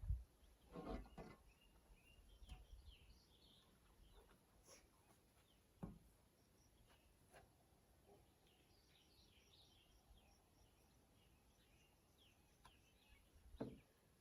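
Near silence with faint bird chirps coming and going, and a few soft knocks, one about six seconds in and another near the end.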